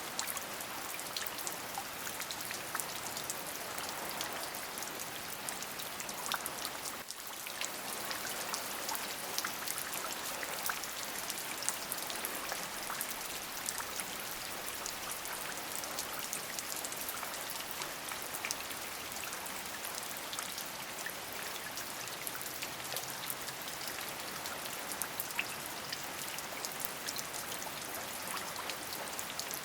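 Steady rain: a constant hiss of falling rain with many individual drop hits heard as fine ticks, dipping briefly about seven seconds in.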